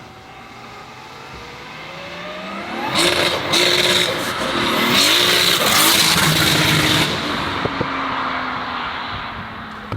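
Volkswagen car accelerating hard towards and past the microphone: its engine note climbs steadily, then goes loud for about four seconds in the middle with brief breaks in the note, then fades as it drives off.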